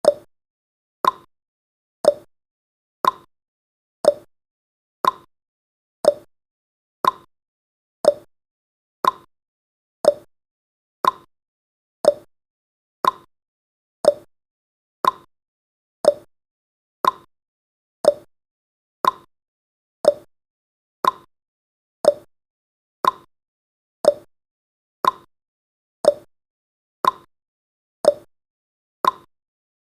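Clock-style tick-tock sound effect of a countdown timer: one sharp tick each second, alternating between a higher and a lower tick.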